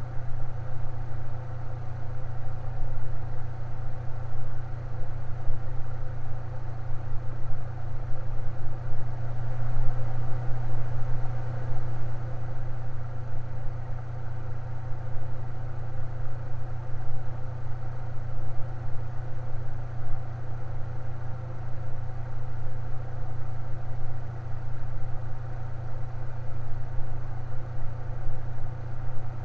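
Electric fan running steadily, a continuous low motor hum with fainter steady tones above it.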